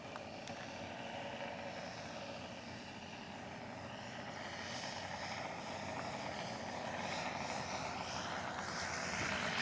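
Radio-control scale model airplane's engine running steadily in flight, slowly getting louder as it comes closer.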